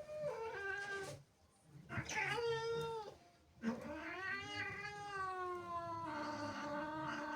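Domestic cat yowling angrily in three drawn-out caterwauls, the last a long howl held for several seconds. It is a territorial cat's warning.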